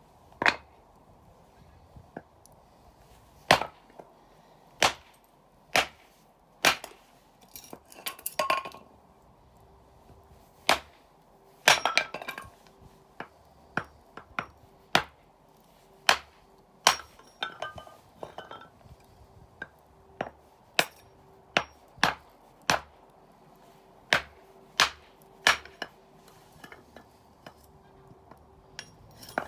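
Campfire of burning firewood crackling, with sharp single pops about once a second at irregular intervals and a couple of quick bursts of crackles.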